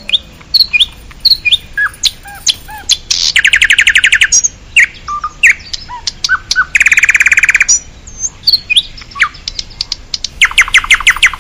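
Songbirds chirping with short whistled notes, broken three times by a rapid trill about a second long.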